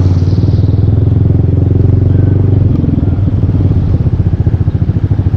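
Yamaha Aerox 155 scooter's single-cylinder engine running through a full Yoshimura exhaust. It holds a steady note under way, then drops off a little past halfway to a slower, pulsing exhaust beat.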